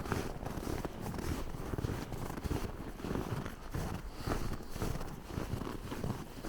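Footsteps crunching in snow at a steady walking pace, a little more than one step a second.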